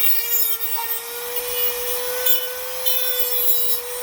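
Small power grinding tool running with a steady whine and rasping as it grinds down the stem of a bent valve in a Volkswagen air-cooled cylinder head, shaving it so the valve can come out without ruining the valve guide.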